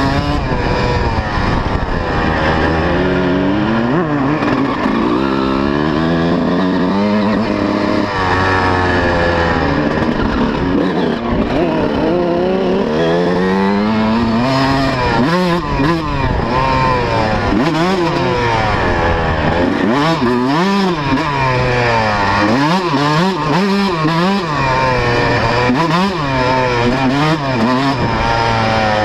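125cc two-stroke motocross bike engine being ridden hard, its pitch rising and falling over and over as the rider opens and closes the throttle and shifts.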